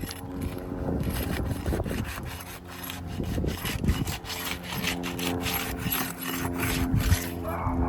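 A hand tool scraping and prying under asphalt roof shingles in many quick rasping strokes, breaking the shingles' seal to remove a damaged one.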